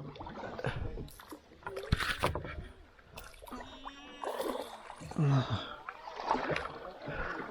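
Kayak paddling: paddle blades splashing in the water and knocking irregularly against the kayak.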